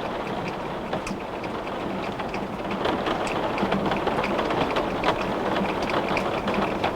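Heavy rain beating on a window pane: a dense steady patter with many sharp individual drop ticks on the glass, growing a little heavier about halfway through.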